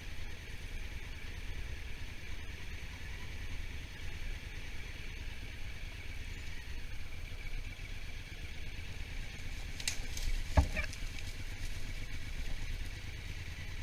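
Steady wind and road rush from a Honda Africa Twin motorcycle on the move, with a low rumble underneath. A brief sharp knock stands out about ten and a half seconds in.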